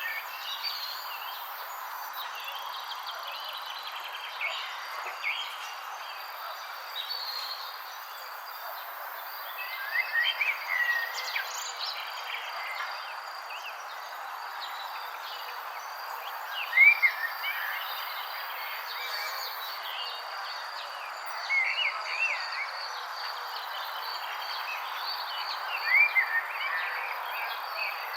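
Small birds chirping in short phrases of quick rising and falling notes every few seconds, the loudest about seventeen seconds in. Underneath runs a steady background hiss and a continuous high-pitched drone.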